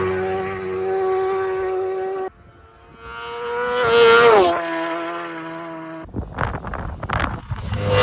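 Racing superbikes passing at high speed: one engine holds a steady note, then a second bike approaches and its pitch drops sharply as it goes by. About three quarters of the way through, the engine note gives way to a short stretch of irregular knocks and clatter.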